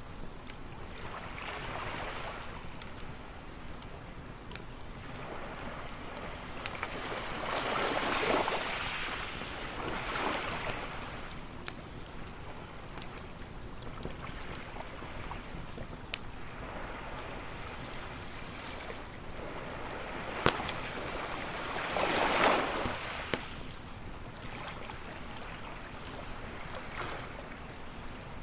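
Waves washing onto a beach, each swelling and fading over a few seconds, with the biggest about a third of the way in and again about three quarters through. Under them a campfire crackles, with scattered sharp pops.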